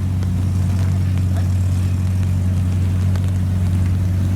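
Classic Japanese car engine running at a steady speed, a deep constant drone with no revving.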